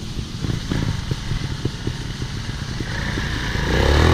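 Off-road motorcycle engine running at low revs with uneven firing pulses, then revving up about three seconds in, loudest near the end.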